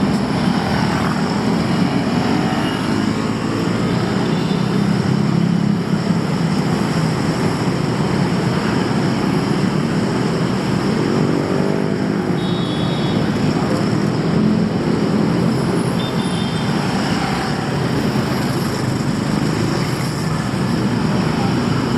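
Steady traffic on a busy city street: many car and motorbike engines running at once. About halfway through, one engine rises and falls in pitch as it passes close.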